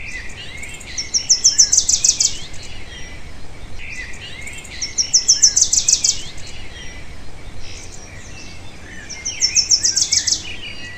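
Birdsong: a bird repeats a loud phrase of rapid high notes three times, about four seconds apart, over softer continuous chirping.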